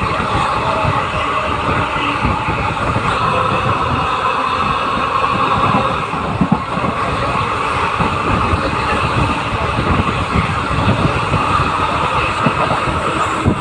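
Express passenger train running along the track: a steady rumble and rattle from the coach and wheels, with many irregular low knocks.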